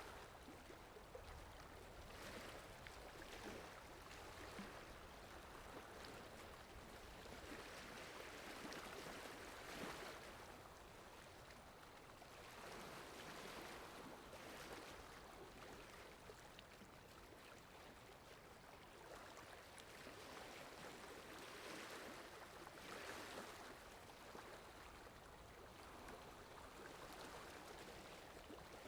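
Faint water ambience sound effect: a steady flow of water that swells and eases every few seconds.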